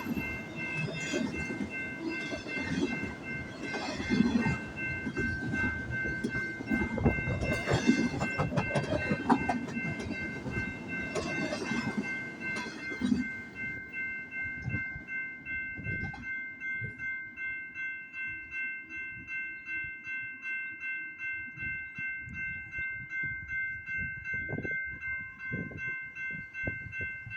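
BNSF double-stack intermodal train's wheels clattering and knocking over the rail joints as the cars roll past, ending about halfway through. A grade-crossing warning bell rings steadily with about two strikes a second throughout, heard alone once the train has gone.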